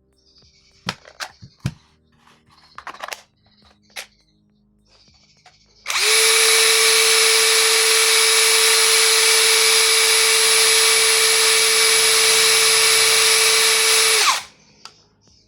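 Dagmara DTD173 cordless impact driver running steadily at constant speed for about eight seconds, a loud even whine that holds its pitch without hammering, then cutting off abruptly. A few sharp clicks and knocks of handling come before it starts.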